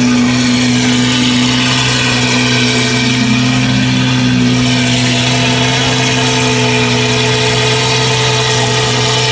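Lamborghini Aventador SVJ's V12 idling steadily just after start-up.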